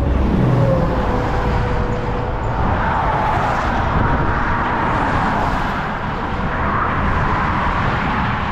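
Steady road-traffic noise, cars driving by in a continuous roar.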